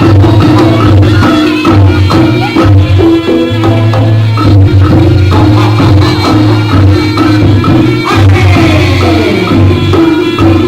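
Live jaranan music from a Javanese gamelan ensemble: a steady beat of drums and shakers under sustained low gong tones, with a melody line that slides downward about eight seconds in.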